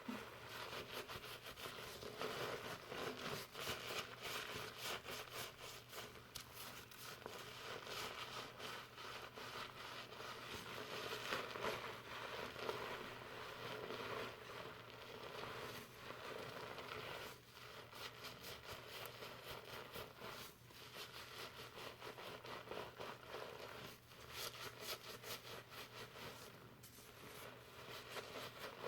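Fingers slowly scrubbing shampoo lather through hair close to the microphone: a continuous soft rustling and fine crackling of foamy hair, swelling and easing with the strokes.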